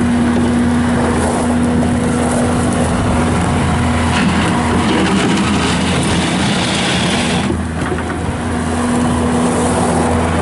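Bobcat S630 skid steer's Kubota V3307 four-cylinder diesel running steadily as the machine is operated. The sound eases briefly about three quarters of the way through, then picks back up.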